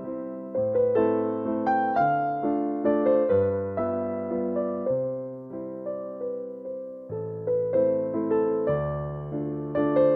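Background music: a gentle solo piano (or electric piano) piece, melody notes struck and left to fade over slowly changing bass notes.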